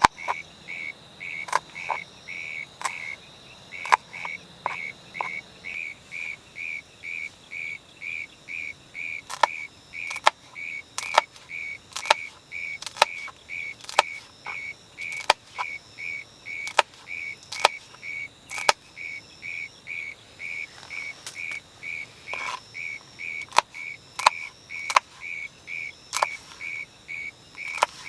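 A small animal's chirp repeated about three times a second, steady and high-pitched, with sharp irregular ticks scattered over it.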